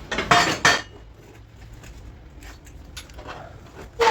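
Metal clanks of an adjustable wrench against a steel plate being bent by hand: two sharp clanks near the start, lighter knocks, then a ringing clank near the end.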